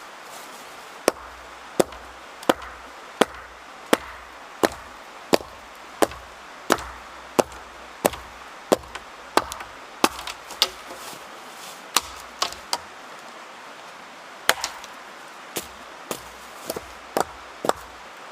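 Wood being chopped with a blade: sharp strokes about every 0.7 seconds in a steady rhythm, turning uneven with pauses in the second half.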